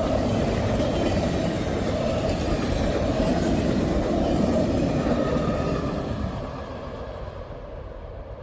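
Fast-moving passenger special train passing close by, its wheels on the rails making a loud, steady rush that falls away about six seconds in.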